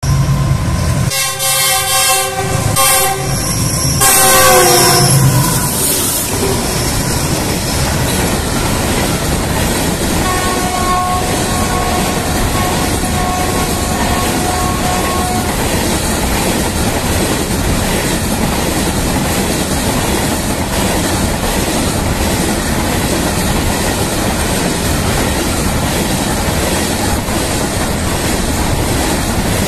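Diesel locomotive horn sounding a few blasts, the pitch dropping on the last as the locomotive passes, then a long two-note horn blast. Through the rest, a freight train of hopper wagons rolls past steadily, its wheels clicking over the rail joints.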